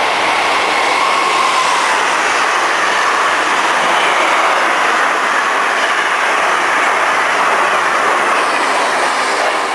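A passenger or freight train passing close by, its steel wheels running on the rails with a loud, steady rush and faint high wheel squeal.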